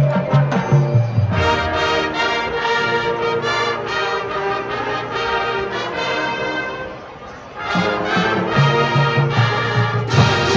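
Marching band playing brass-led music: sustained brass chords over low bass notes. The music drops briefly to quieter playing about seven seconds in, then the full band comes back in.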